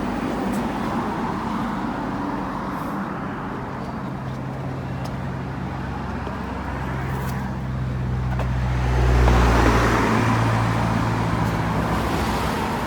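Steady road traffic going by, with one vehicle passing close and growing loudest about nine seconds in before fading.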